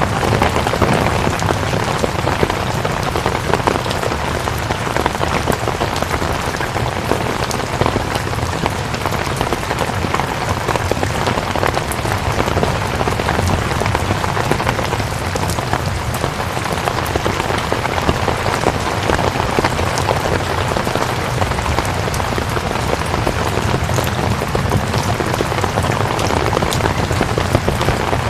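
Steady heavy rain falling and pattering on surfaces, an even hiss dense with individual drop taps.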